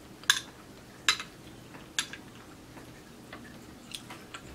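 Close-miked chewing of a mouthful of food, heard as sharp wet mouth clicks: three loud ones about a second apart in the first two seconds, then a few fainter ones.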